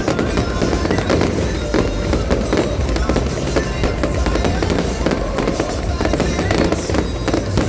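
Fireworks display going off continuously: rapid crackling and popping over deep, repeated booms, with a pop song playing underneath.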